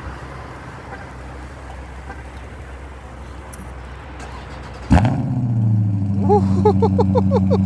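Dodge Scat Pack Widebody's 6.4-litre HEMI V8 on a cold start: after a few seconds of steady low background noise, it fires about five seconds in with a sudden loud burst and settles straight into a steady, deep idle.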